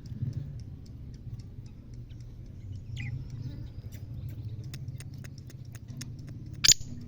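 Faint, irregular ticking over a low hum, with a brief falling chirp about three seconds in. A loud bird call begins near the end.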